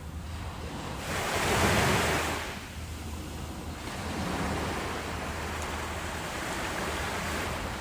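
Ocean waves washing onto the shore. One wave surges in about a second in and is loudest near two seconds, then falls back; a softer swell follows.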